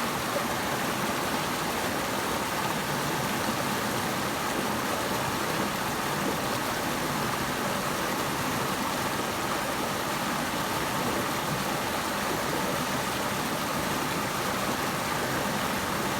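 Running water rushing steadily, an even, unbroken hiss with no separate splashes or changes.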